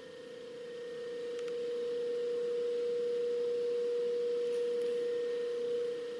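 A steady, single-pitched tone that grows louder over the first few seconds, holds, then eases off near the end.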